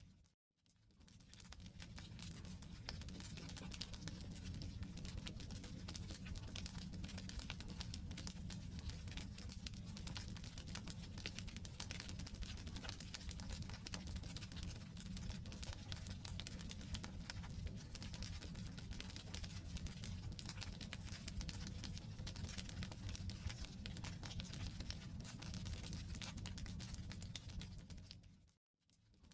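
Wood campfire burning, a dense irregular crackle over a steady low rumble. The sound fades out and back in briefly just after the start and again near the end.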